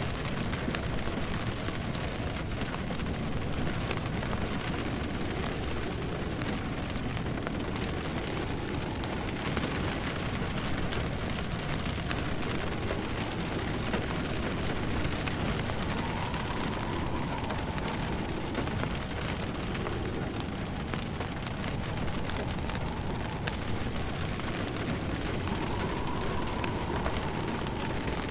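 Steady rain with a crackling wood fire, mixed as one continuous ambience. Twice in the second half a faint whistle of wind rises and falls over it.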